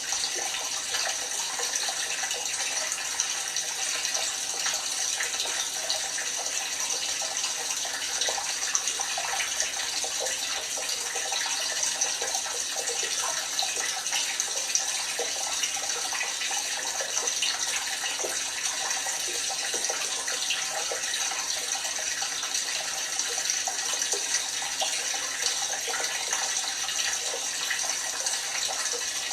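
LG washing machine with water running steadily into the drum, a constant rushing with small splashes throughout.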